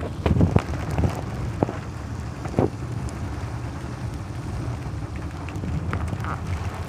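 Car driving: a steady low engine and road rumble, with several sharp knocks in the first three seconds.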